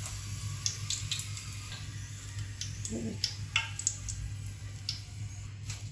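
Light, scattered ticks and crackles from crisp-fried potato strips in a wire-mesh spider strainer held over hot frying oil, over a steady low hum.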